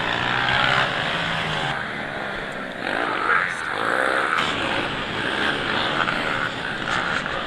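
Dirt bike engines racing on a motocross track, their pitch rising and falling as the riders rev through the turns.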